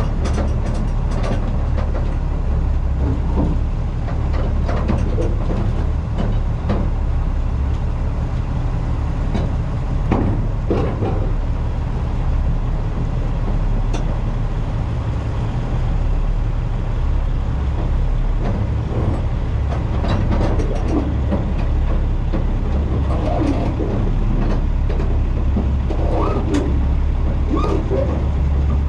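Heavy diesel engine running steadily with a low rumble, with scattered knocks and clanks over it.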